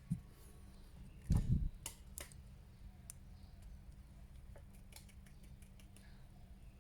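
Small plastic parts of an action figure being handled, giving scattered light clicks and taps, with one dull low thump about a second and a half in.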